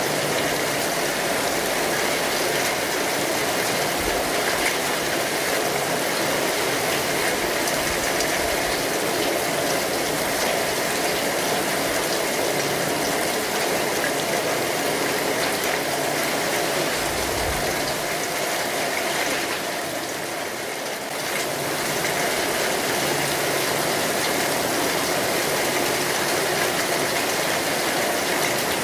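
Steady rain falling on an umbrella canopy, a dense even patter that eases briefly about two-thirds of the way through.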